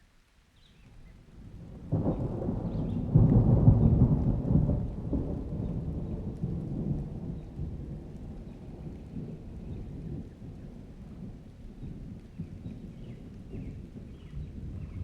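A thunderclap: a low rumble swells, breaks sharply about two seconds in, peaks a second later and then rolls on, slowly fading.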